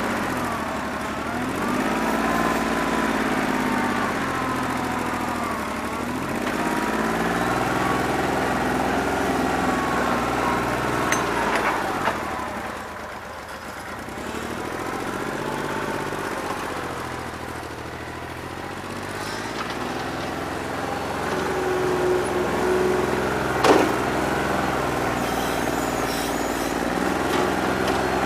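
New Holland 1320 tractor's three-cylinder diesel running with its engine speed rising and falling over and over, with two sharp clanks, about 12 seconds in and near the end. It has a bad injector and runs on roughly two and a half cylinders.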